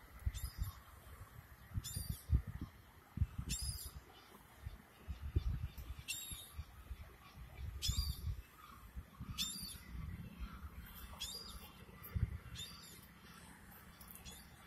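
A bird giving short, high chirps, one about every second and a half. Under them, uneven low rumbling of wind buffeting the microphone.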